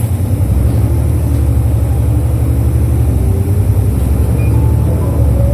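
Interior running sound of a 2005 Isuzu Erga KL-LV834L1 bus pulling away from a stop: a steady deep rumble from its V8 diesel engine, with a faint whine that rises in pitch as the bus gathers speed.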